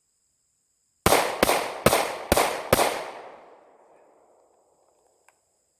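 Five 9mm pistol shots fired in rapid succession, about two a second, each with a short echoing tail that dies away over the next two seconds.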